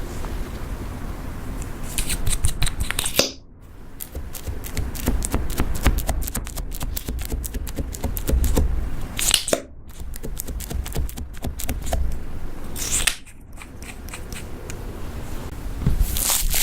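Butter slime being squished, stretched and mixed by hand: a dense run of quick sticky clicks and crackles. It breaks off sharply three times.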